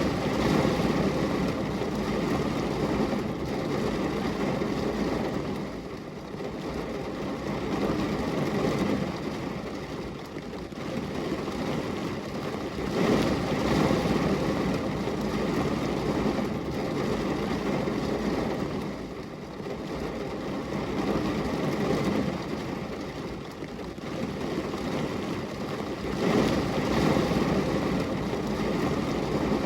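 Steady rain falling against a glass window: a dense, even rush of noise that swells louder and eases off every several seconds.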